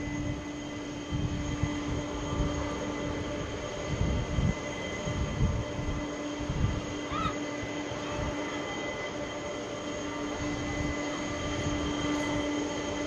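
Boeing 747-400F jet engines heard from a distance as a steady hum with a whine, growing slightly louder near the end, while wind buffets the microphone in uneven gusts.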